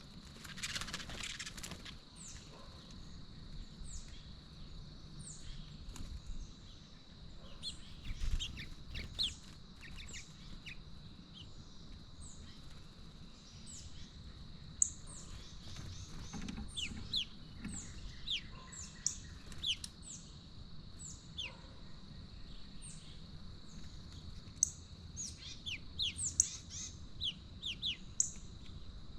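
Backyard birds chirping: many short, high, downward-sliding chirps in a loose, irregular series that grows busier in the second half, over a steady high-pitched hum.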